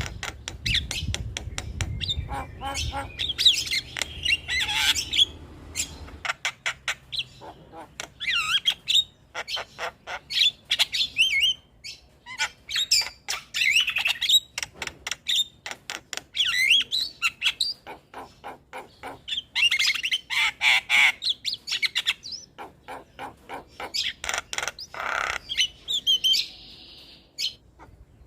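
Javan myna (jalak kebo) singing continuously: a fast mix of clicking chatter, harsh squawks and short gliding whistles.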